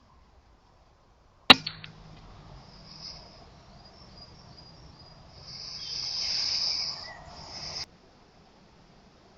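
A single sharp crack from a .22 Air Arms S510 pre-charged air rifle firing about a second and a half in, followed by a few faint clicks. After it comes a high, thin chirring that swells and then cuts off suddenly near the end.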